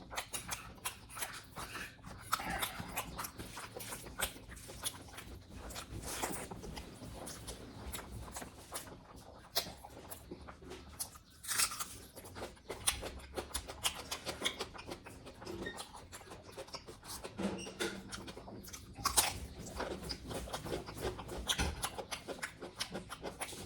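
A person chewing a mouthful of pork curry and rice close to the microphone, with many small irregular clicks and a few louder ones.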